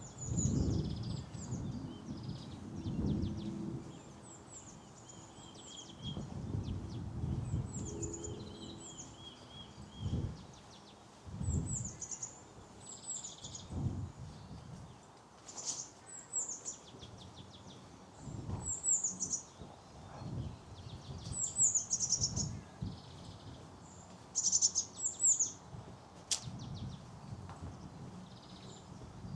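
A small songbird singing short, high phrases of quick falling notes, repeated every couple of seconds, with a second bird's brief trill. Footsteps on a path thud dully underneath.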